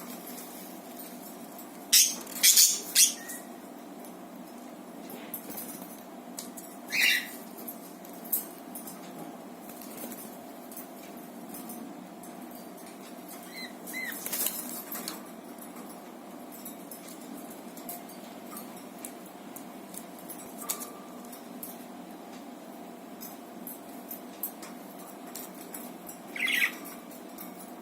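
Budgies at play with a wheel toy: a handful of short, sharp chirps and clicks a few seconds apart, over a faint steady hum.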